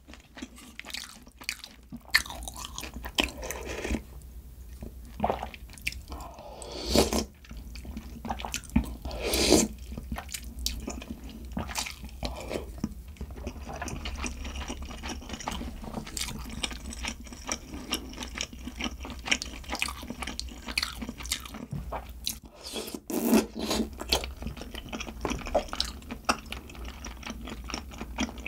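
Close-miked chewing and crunching of food, with many short sharp crunches scattered throughout; the food is a bit hard.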